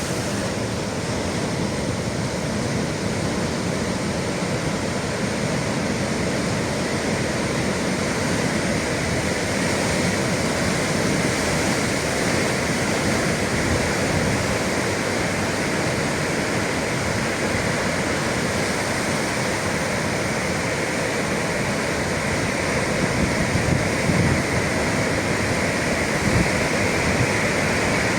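Sea surf giving a steady, even roar, with no single wave crash standing out.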